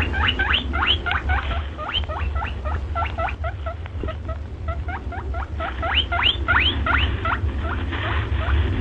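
Small animal squeaking in a quick, continuous run of short high squeaks, several a second, some sliding up in pitch and some down. A steady low hum sits underneath.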